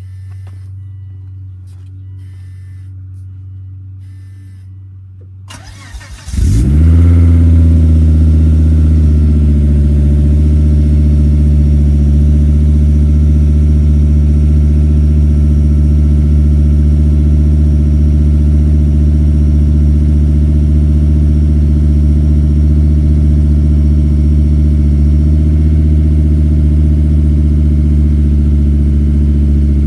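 Cold start of a 2006 Volvo S60 T5's turbocharged five-cylinder whiteblock engine, heard through an IPD catback exhaust. After a low steady hum, the starter cranks briefly about six seconds in, the engine catches, and it settles into a steady idle.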